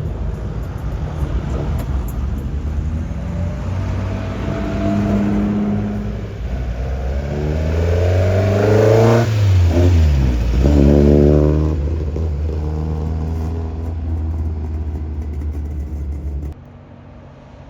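Classic car engines running as cars drive out. One car's engine note climbs in pitch and then drops as it passes close, while a steady low engine note carries on until it cuts off about a second before the end.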